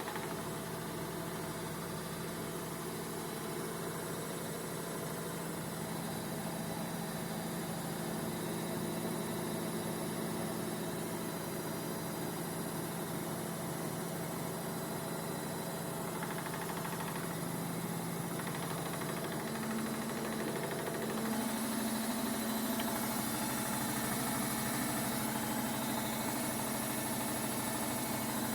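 Vestel washing machine in its final spin, the drum motor running with a steady hum and vibration. About 20 seconds in the hum steps up in pitch and gets slightly louder as the spin speeds up.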